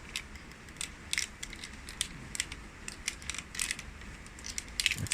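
Plastic parts of a knockoff Transformers Masterpiece Inferno figure clicking as they are moved and pushed into place by hand: a string of irregular small clicks, with a quick cluster near the end.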